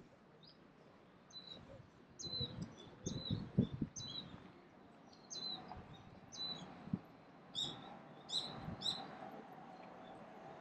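A bird calling over and over in short, high, falling chirps, about one or two a second, with three louder calls about eight seconds in. A few low thuds sound between about two and four seconds in.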